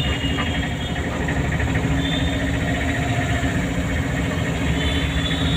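Car engine running steadily while the car is driven, a low hum with road noise.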